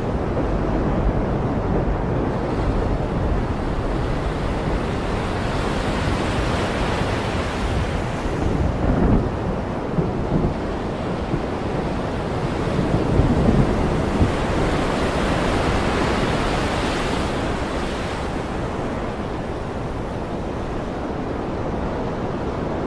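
Caspian Sea waves breaking and washing on the shore, swelling and easing every few seconds, with wind buffeting the microphone.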